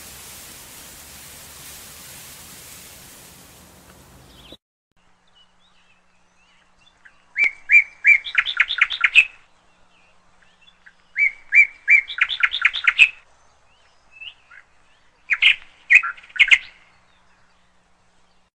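A songbird singing three phrases about four seconds apart, each a few clear notes followed by a quick run of notes. A steady hiss fills the first four seconds and stops abruptly.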